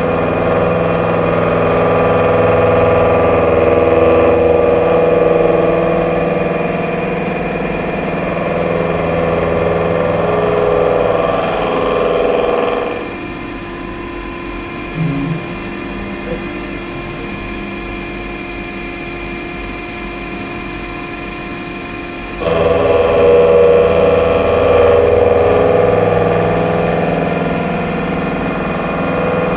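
SAU S2000.88W insert shoulder milling cutter cutting C45 carbon steel on a horizontal machining centre, a loud grinding cut with a steady ringing note. The cut stops about 13 seconds in, leaving the quieter hum of the machine, and starts again about 22 seconds in.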